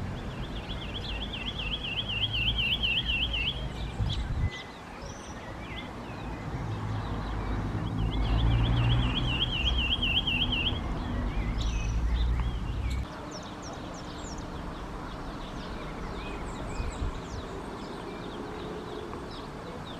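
Lemon-chested greenlet singing twice: a rapid, wavering trill about three seconds long, heard at the start and again about eight seconds in. A low rumble runs under the first half and stops about thirteen seconds in, and faint short calls of other birds come in later.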